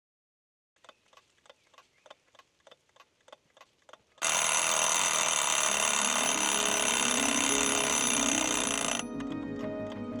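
Clock ticking about four times a second, then about four seconds in a loud alarm clock ringing for some five seconds, giving way to music with a ticking beat near the end.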